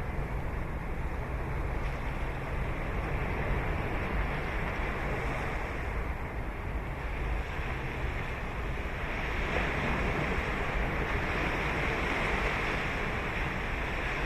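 Ocean surf breaking and washing up a beach: a steady wash with a low rumble, and a wave's hiss swelling louder about two-thirds of the way through.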